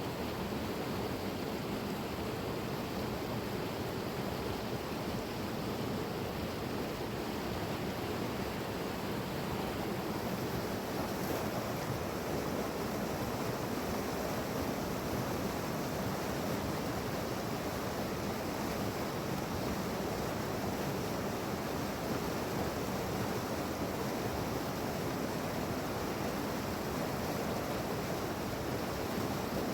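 Steady rush of a fast-flowing mountain river, a constant noise without breaks.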